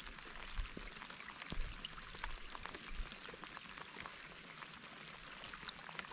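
Steady rain falling on open lake water: a soft hiss made of many small drop patters, with a few dull low thumps about half a second and a second and a half in.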